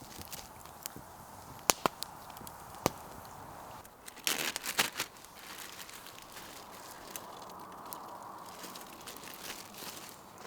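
Wood fire crackling, with a few sharp pops and a short burst of rustling about four seconds in.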